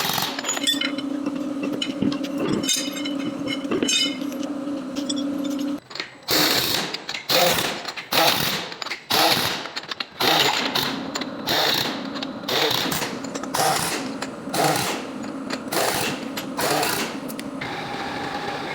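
A power tool running steadily with a rattle, then in short repeated bursts about twice a second.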